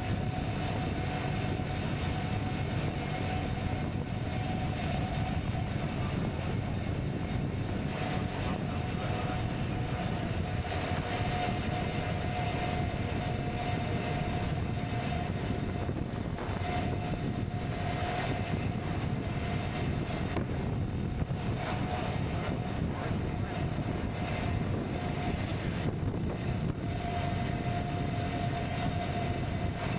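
KTM Duke 125's single-cylinder four-stroke engine running at a steady cruising speed, its pitch holding nearly constant, with road and wind noise underneath.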